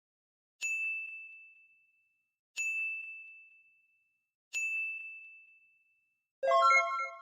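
Three identical bell-like ding sound effects about two seconds apart, each a single high tone that fades away over a second and a half. Near the end comes a louder chime of several notes together.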